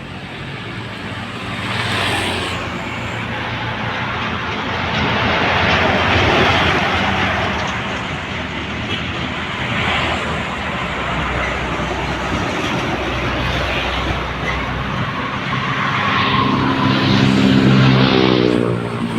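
Heavy road traffic passing close by: the drone of a big diesel truck engine with tyre and road noise that swells and fades as vehicles go past. Near the end an engine note climbs as a vehicle accelerates.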